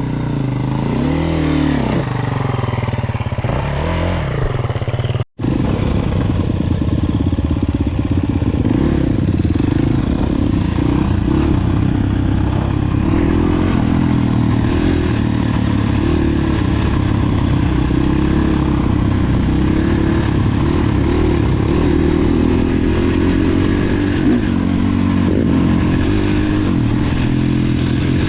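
Dirt bike engine running while riding, its pitch rising and falling with the throttle. The sound cuts out for an instant about five seconds in.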